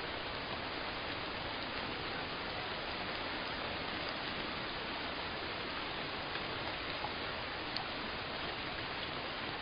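Steady rain falling, with a few separate drops ticking louder here and there.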